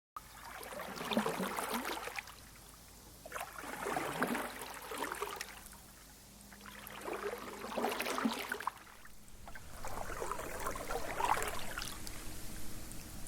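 Canoe paddles dipping and pulling through river water, with a swell of splashing and dripping about every three seconds.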